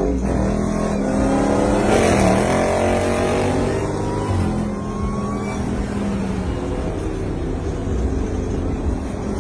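Car engine revving, its pitch rising sharply about a second in and then falling and rising again several times.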